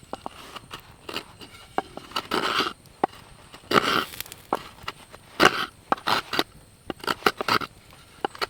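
A blade carving wood: uneven scraping strokes, each under half a second, with short clicks between them as shavings are cut away from a wooden plate.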